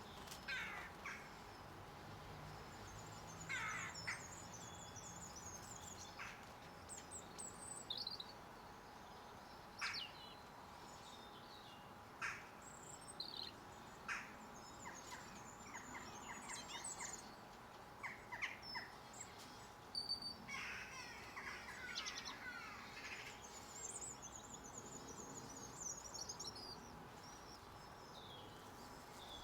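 Garden birds chirping and calling on and off: short high calls and twittering, with a faint steady hum underneath.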